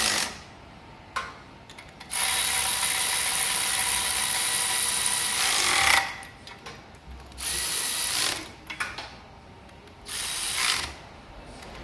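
Cordless electric ratchet spinning nuts down in bursts: one long run of about four seconds that swells briefly as it stops, then two shorter runs.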